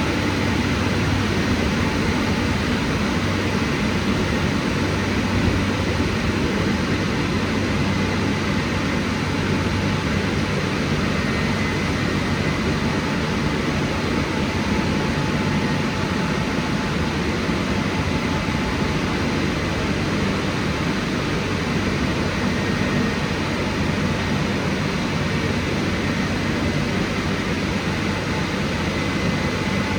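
WashTec SoftCare² Pro rollover car wash running, a steady, continuous rushing noise with no breaks.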